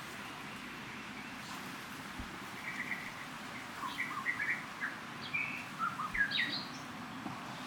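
A run of short, high chirping calls, some sliding up or down, from about two and a half seconds in to about six and a half seconds, over a steady outdoor hiss.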